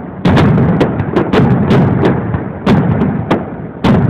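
Fireworks shells bursting in quick succession: sharp booms about every half second, over a continuous rumble of bursts.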